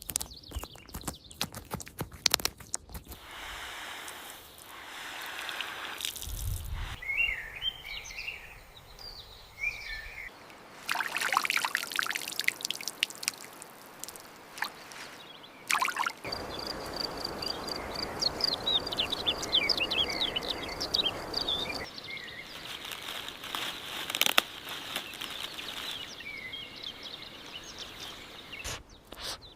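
Outdoor rural ambience in several short cuts: small birds chirping, most busily about two thirds of the way through, over stretches of steady rushing, pouring noise, with scattered clicks near the start.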